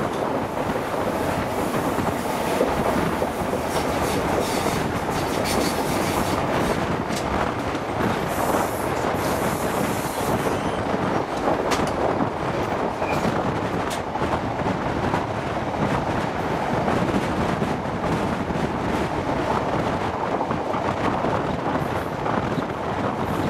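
InterCity 125 High Speed Train running along the line, heard through an open window: a steady rush of wheel-on-rail and air noise, with a few sharp clicks from the track.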